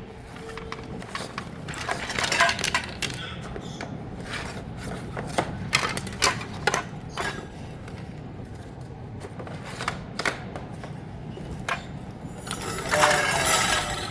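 Metal parts of a wire bird cage clicking and clinking as it is assembled: irregular sharp taps, with a louder, denser rattle near the end.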